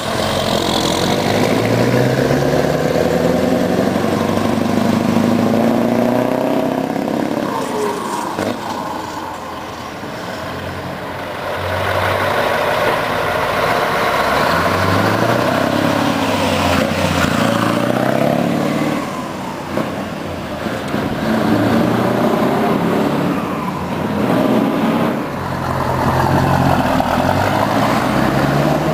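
Scania V8 truck engine running under load, its pitch rising and dropping back several times as it accelerates.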